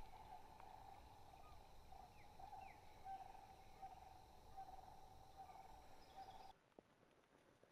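Near silence: faint outdoor ambience with a steady, pulsing high drone and two short bird chirps a couple of seconds in. The drone stops abruptly near the end, leaving quieter ambience.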